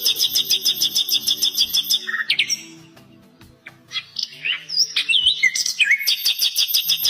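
Nightingale singing: fast runs of repeated high notes, about a dozen a second, break off about two seconds in. After a short pause come a few whistled slides, then the rapid repeated notes start again near the end.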